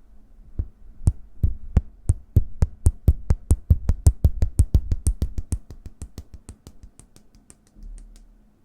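Hands making close ASMR tapping sounds: a quick, even run of sharp taps, about four or five a second, that stops near the end.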